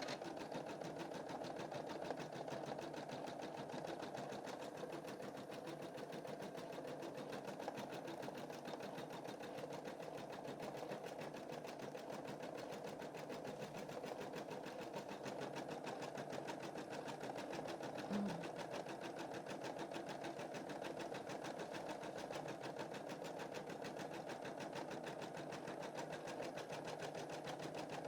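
Computerized embroidery machine stitching a design at a steady, fast rate, its needle going in an even rhythm. It gives a brief louder knock about 18 seconds in.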